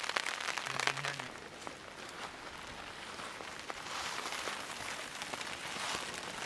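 Steady rain falling as a dense patter of small drops, partly on a tarp shelter overhead.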